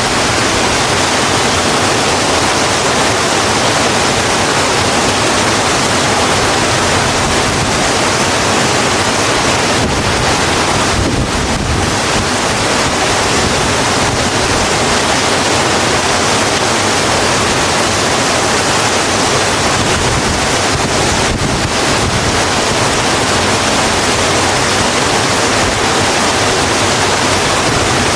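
Steady rain falling on a road, a dense, even hiss with no breaks.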